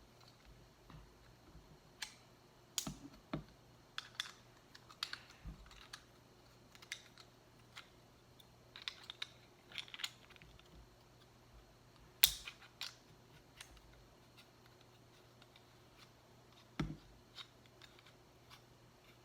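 Irregular clicks, taps and short rustles of a phone holder and its plastic packaging being handled and worked open, with a few dull knocks; the sharpest click comes about twelve seconds in.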